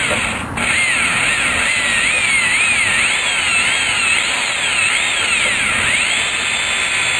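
Black & Decker electric drill running, its whine rising and falling in pitch as the bit bores through a metal muffler. It stops briefly about half a second in, then runs on.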